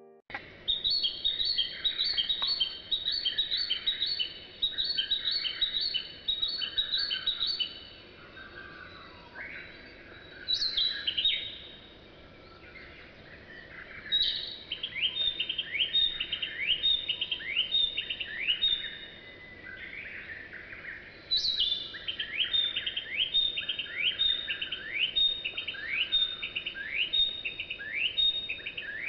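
Bird song: quick repeated high chirping notes, then three separate phrases that each start with a high note and run into a string of downward-sweeping notes, about two a second.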